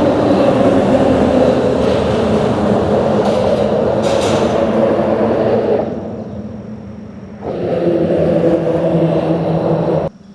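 A steady mechanical rumble with a hum running through it. It fades down about six seconds in, comes back sharply about a second and a half later, and cuts out abruptly near the end.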